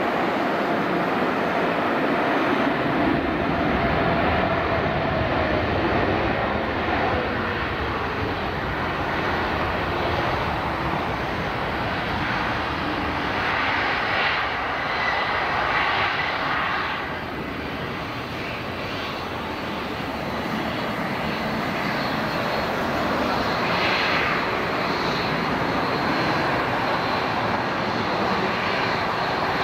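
Jet airliner on landing approach, its engines making a loud, steady noise, with a tone that falls in pitch over the first several seconds as it passes.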